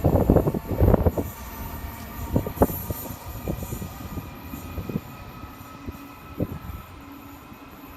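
A train passing, with steady whining tones and irregular low thumps that are loudest in the first second and thin out after.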